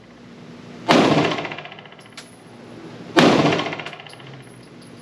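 Two shots from a PSA Dagger 9mm compact pistol, about two seconds apart, each ringing out in the reverberation of an indoor range. It is slow, deliberate fire, the pistol cycling with a Glock magazine.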